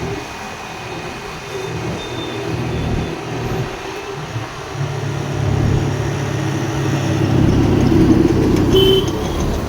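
Motor vehicle and road traffic noise, with a steady engine hum that comes in about five seconds in and grows louder.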